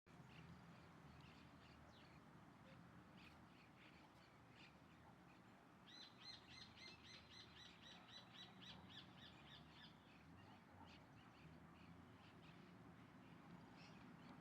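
Faint bird calls, with scattered short chirps throughout. In the middle comes a run of rapid, repeated harsh pitched notes, about four a second, that lasts a few seconds.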